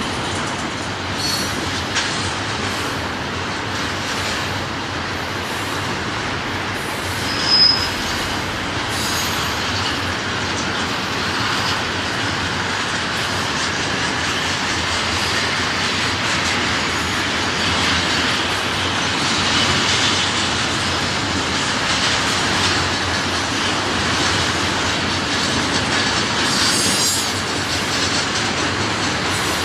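Freight train cars rolling past, steel wheels running over the rail joints with a steady rumble and clatter. About seven seconds in, a wheel gives a brief, sharp high-pitched squeal.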